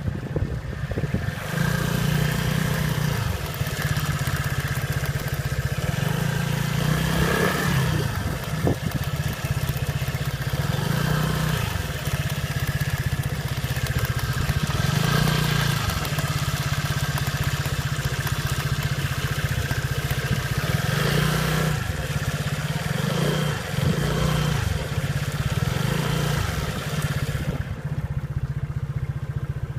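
SYM Jet Power scooter running as it is ridden, its engine note rising and falling several times. It has a rattling "da-da-da" tapping from the drivetrain, which the owner hears when turning left and takes for a transmission fault. Near the end the road noise falls away and the engine keeps running.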